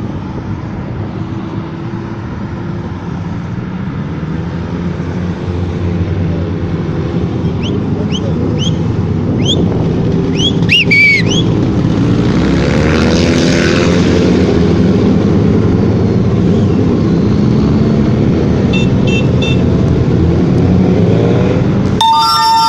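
Several motorcycle engines running together, their sound growing louder over the first ten seconds or so. A horn sounds near the end.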